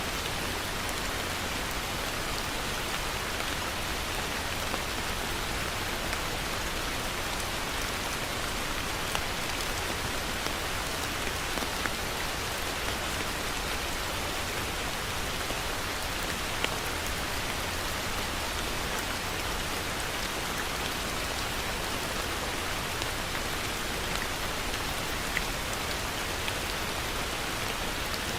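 Heavy rain falling steadily, a constant hiss with scattered louder individual drop ticks.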